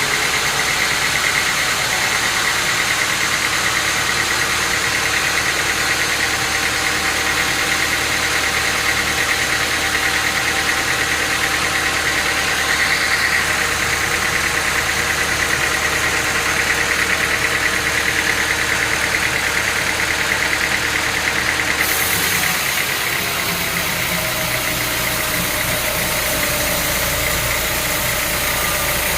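Sawmill machinery running steadily, a motor-driven mechanical drone with a high, rapidly pulsing band running through it; the sound changes abruptly about 22 seconds in.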